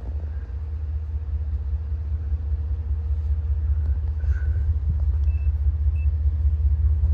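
Low rumble of an approaching train, growing steadily louder.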